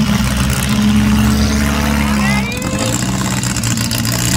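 Demolition derby car engines running loudly and revving, with a brief rise in pitch about halfway through.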